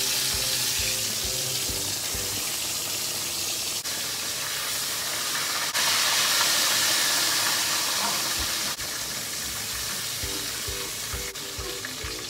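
Pork steaks deep-frying in hot oil in a wok: a steady, dense sizzle that grows suddenly louder about six seconds in, with a few light clicks of metal tongs.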